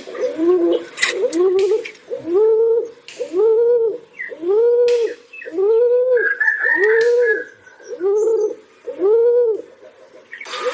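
Pigeons cooing: a steady series of short, arching coos, about one a second.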